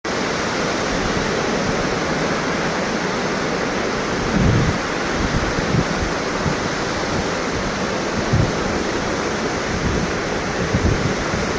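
Thomson's Falls, a 74-metre waterfall, pouring with a steady heavy rush of falling water. A few short, low gusts of wind hit the microphone over it.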